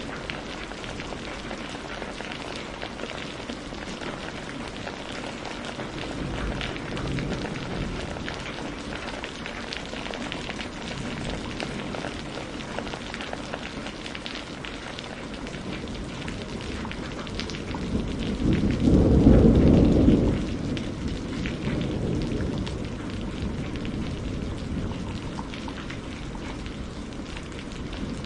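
Steady rain falling, with fine pattering drops throughout. About two-thirds of the way through, a deep roll of thunder swells to the loudest point and dies away over a few seconds.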